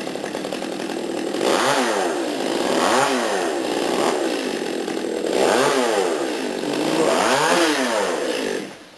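Chainsaw revving up and down over and over, its pitch rising and falling about five times, then cutting off suddenly near the end.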